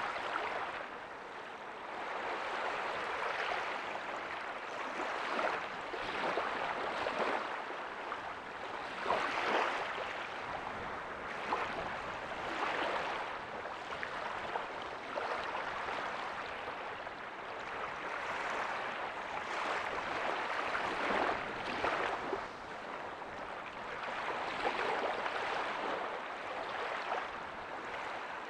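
Small ocean waves breaking softly on a beach: a steady wash of surf that swells and eases every few seconds.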